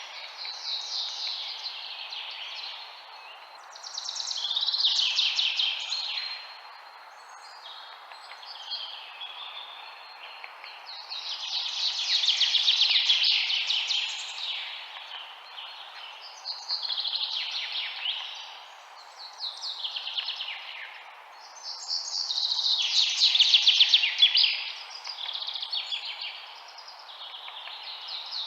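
Songbirds singing: phrases of rapid notes that mostly fall in pitch, one every few seconds, with the loudest a couple of seconds long. A steady background hiss runs beneath the song.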